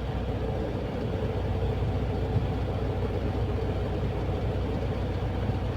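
Steady low rumble of a semi truck's diesel engine heard from inside the cab, with a faint steady hum above it.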